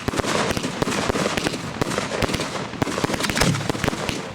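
Fireworks going off at close range: a dense, rapid run of sharp bangs and crackles over a continuous hiss, with no break.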